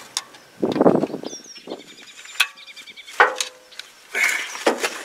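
Hands working tractor hydraulic quick-connect couplings: scattered sharp metal clicks and knocks, with a brief scraping rush about a second in.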